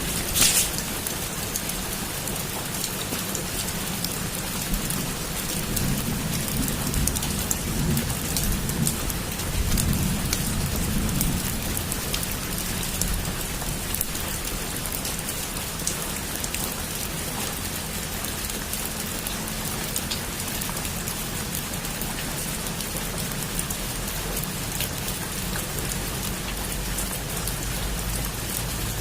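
Heavy rain falling steadily, with a sharp crack of thunder right at the start and a low rumble of thunder from about six to eleven seconds in.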